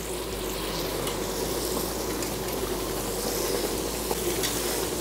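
Onion-tomato masala frying in oil in a kadhai, a steady sizzle, as puréed spinach is poured in. The masala is fully fried, with the oil separated out.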